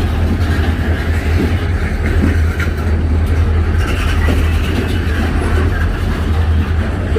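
Freight train rolling past, a steady heavy rumble with rail and wheel noise.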